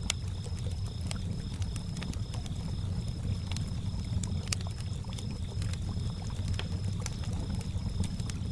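Campfire crackling with scattered sharp pops over a low steady rumble of lapping lake water, while crickets chirp in a steady, even high pulse.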